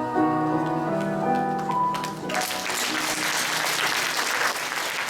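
Music with piano ends on held notes, and about two seconds in an audience breaks into sustained applause.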